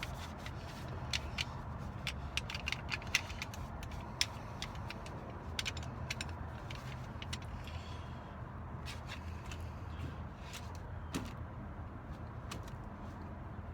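Surface rust being rubbed off a Sargent mortise lock's metal parts: irregular light scratching and small clicks of metal, over a steady low hum.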